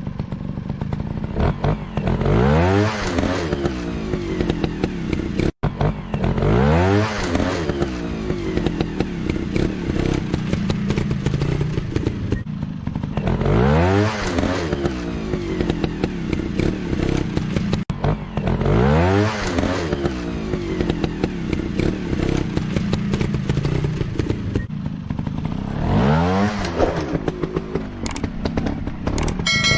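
Dirt bike engine revving up and falling back again and again, about every four to six seconds, over a steady clattering and scraping.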